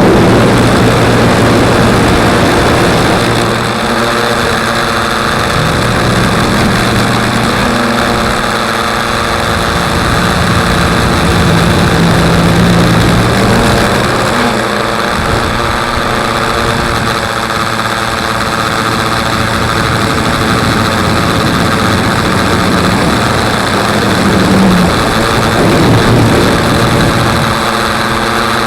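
Motor spinning a propeller that has a broken blade, running loud and continuously, its hum rising and falling in pitch a few times, most clearly a little under halfway and again near the end.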